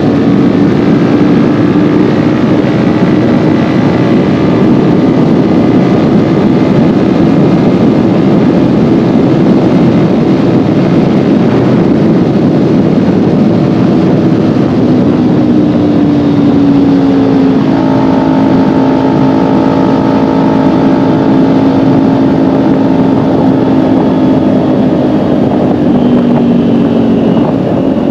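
Kawasaki Ninja 400's parallel-twin engine running under way, heard from the rider's seat, its valves freshly adjusted. The engine note holds steady, eases down a little about halfway through, and dips again near the end.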